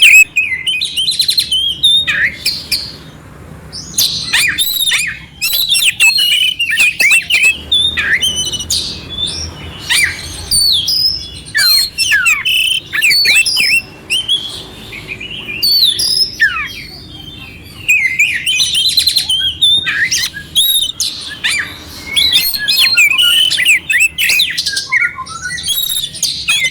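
Oriental magpie-robin singing a clear, varied song of quick whistles, sweeps and harsh fill-in notes, in phrases broken by short pauses.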